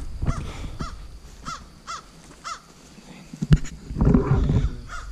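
A bird calling in a series of short arched calls, about two a second, with a sharp knock about three and a half seconds in.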